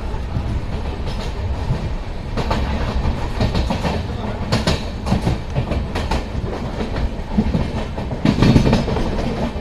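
Passenger train heard from on board while it runs: a steady rumble of wheels on rail, with irregular sharp clicks and clacks as the wheels cross rail joints and points, and a louder surge of rumble near the end.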